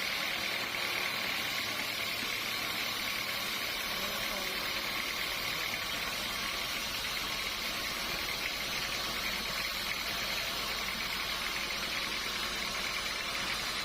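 Sawmill machinery running steadily: a constant mechanical noise with a steady high whine.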